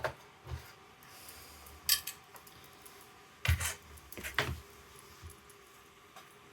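Small objects being handled: a few separate sharp clicks and light knocks, with the loudest clatter about three and a half seconds in and another just after four seconds.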